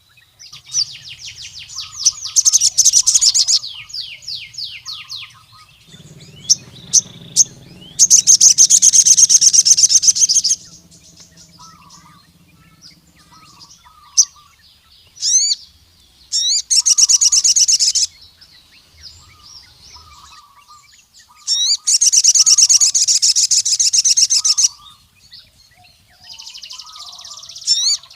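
Male sogon (sunbird) singing loud, fast strings of high, rapidly repeated notes in bursts of two to three seconds, with soft scattered chirps between bursts. This is the song a sogon gives when calling out a rival male.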